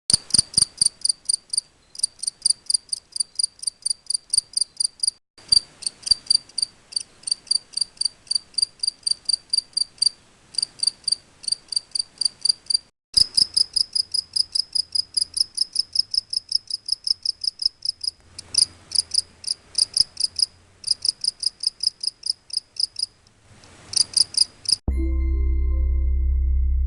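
Male European field cricket (Gryllus campestris) giving its calling song: a steady train of high, shrill chirps, about four a second, in long bouts with brief breaks. Near the end the chirping stops and a loud steady low tone takes over.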